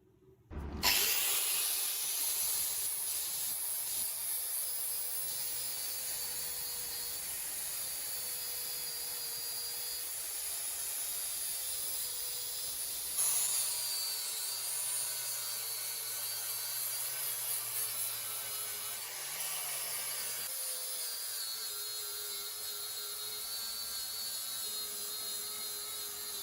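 Electric power tool running steadily under load, its motor pitch wavering as it works the piece, with a strong high hiss of abrasion; the sound changes abruptly twice.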